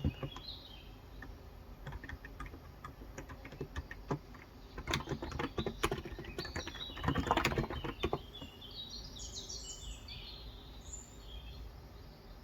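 Typing on a Cox Endeavour tenkeyless keyboard with 35 g electro-capacitive switches: irregular keystrokes and quick bursts of typing, stopping about eight seconds in. A bird chirps a quick series of high notes at the start and again near the end.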